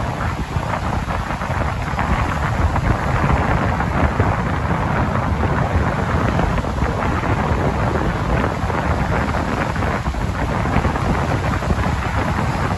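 Strong wind buffeting the microphone in a steady low rumble, over the continuous wash of surf on the beach.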